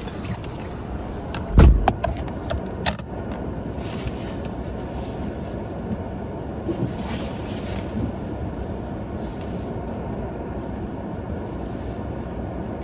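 A heavy thump about a second and a half in, then the Ford Maverick pickup running with a steady noise.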